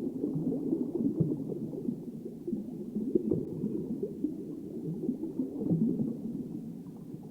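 Muffled underwater sound recorded by a diver's camera: a low, irregular bubbling and gurgling rumble.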